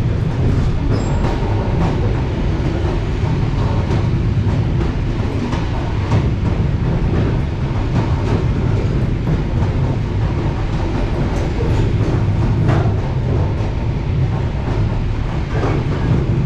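Train running on the rails, heard from inside the carriage: a steady low rumble with occasional sharp clacks of the wheels over rail joints.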